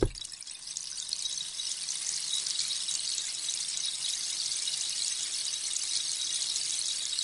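Rainstick slowly tipped, its pebbles or beads trickling down through the tube in a dense, fine patter like light rain, building over the first couple of seconds and then holding steady.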